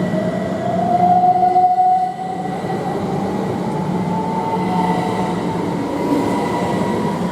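A Class 379 Electrostar electric multiple unit pulling away from the platform. Its traction motors give a whine that climbs steadily in pitch as it accelerates, over a steady rumble of running gear.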